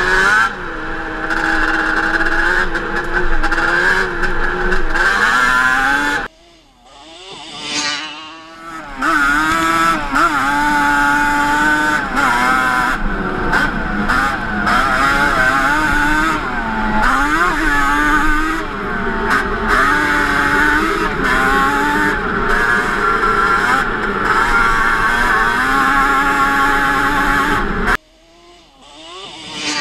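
Yamaha Banshee 350 twin-cylinder two-stroke engine running under riding load, its pitch rising and falling as the throttle works. Twice, about six seconds in and again near the end, the sound drops away sharply for a second or two before it picks up again.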